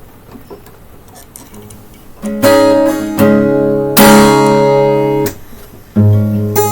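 Acoustic guitar strummed in loud chords, starting a couple of seconds in after a quiet opening and pausing briefly between strums.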